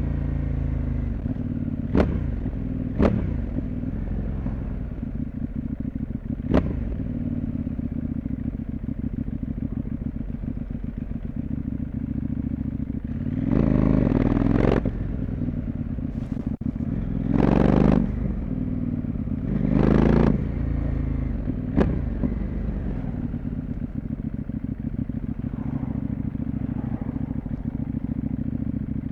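CFMoto 800MT motorcycle's parallel-twin engine and exhaust running steadily while riding on the road. A few sharp clicks come early on and once more near 22 seconds, and three louder rushing swells pass through the middle.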